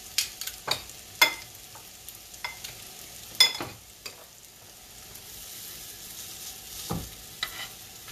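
Sweet potato pancakes sizzling steadily as they fry in oil in a pan, with several sharp clicks and knocks of a utensil against the pan, the loudest about a second and three and a half seconds in.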